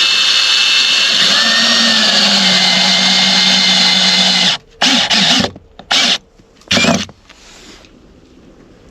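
Electric power drill running at full speed for about four and a half seconds, then triggered in three short bursts about a second apart. A faint, steady hiss is left after it stops.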